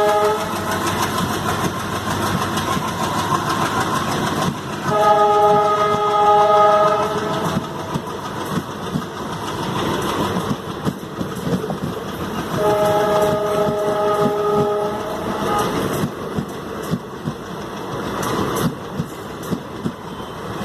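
Passenger train pulling out, its locomotive sounding a multi-tone horn in two blasts of about two and a half seconds each, over the steady rumble of the moving coaches. Near the end the wheels clatter over rail joints in a regular clickety-clack.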